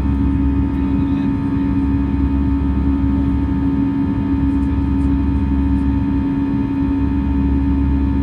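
Airbus A320 cabin noise: a steady drone from the jet engines and airflow, with a constant low hum and fixed higher tones that stay unchanged throughout.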